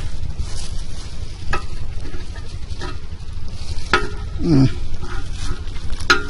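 A few sharp metal clinks of hand tools against engine parts, over a steady hissing background noise, with a brief falling squeak about halfway through.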